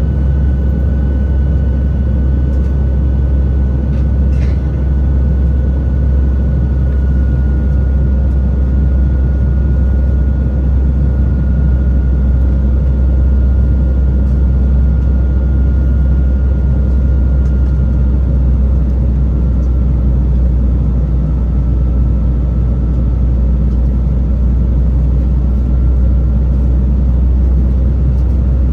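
Airbus A320 cabin noise in flight: a steady deep rumble of the airflow and its IAE V2500 engines, with a faint thin whine that slowly sinks in pitch. There is a brief faint click about four seconds in.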